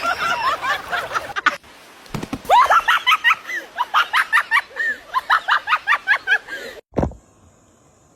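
Laughter: a rapid string of short rising-and-falling 'ha' sounds, about four a second, lasting some four seconds, after a moment of talk. A single short thump follows near the end.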